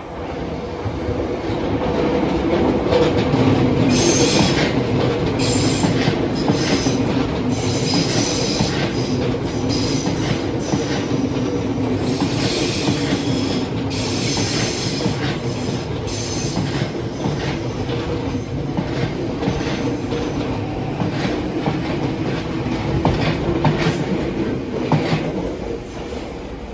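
A Tobu line electric train running through the station, its wheels squealing on and off in high screeches over a steady rumble of rail noise. It grows louder over the first few seconds and fades near the end.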